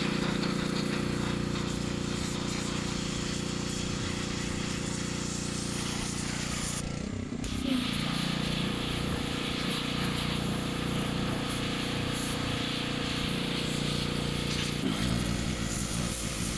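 Pressure washer running, a steady motor hum under the hiss of its water jet blasting softened grease off a magnesium transmission case. The sound shifts abruptly about seven seconds in and again near the end.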